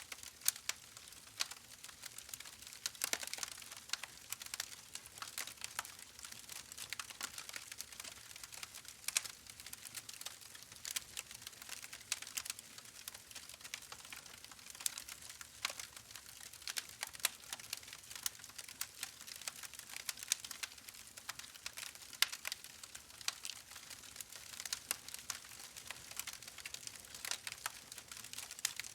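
Faint, continuous crackling: many small irregular clicks and pops over a soft hiss, with no steady rhythm.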